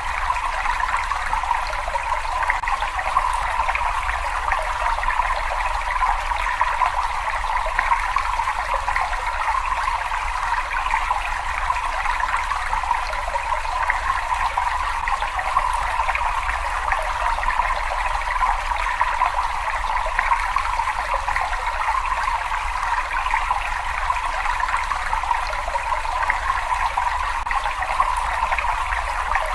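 Running water trickling and rushing steadily without a break, with a faint low rumble beneath.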